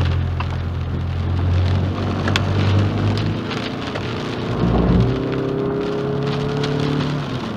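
Rain falling on a car as it drives, a steady hiss over the low hum of the engine and road.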